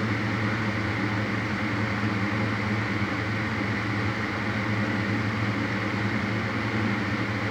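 Steady mechanical hum with hiss, unchanging throughout.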